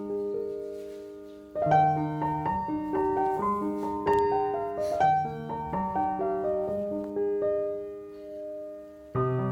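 Background piano music: a gentle melody of separate notes over a lower accompaniment.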